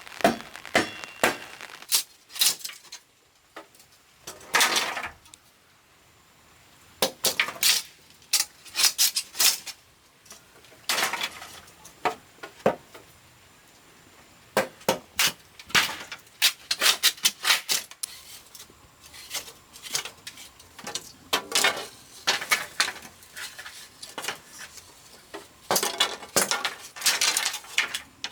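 Irregular clinking and knocking of hard objects, some single and some in quick runs of several strikes, with short pauses between.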